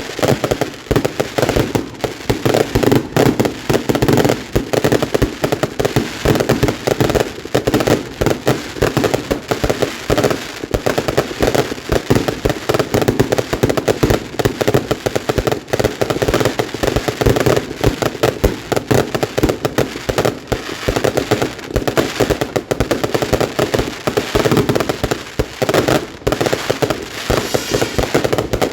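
Fireworks going off in a continuous barrage of rapid, overlapping bangs and crackles.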